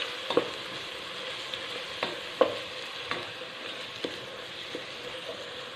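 Onion and tomato masala with ground spices sizzling in a non-stick pot while a wooden spatula stirs it. A steady frying hiss, with a few sharp knocks of the spatula against the pot.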